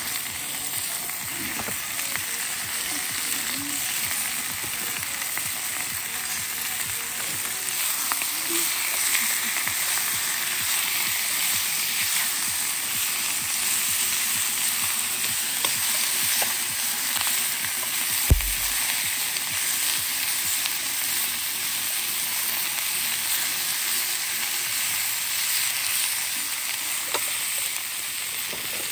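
Food sizzling in hot oil over a wood campfire, a steady hiss with scattered small crackles and one sharp knock a little past the middle.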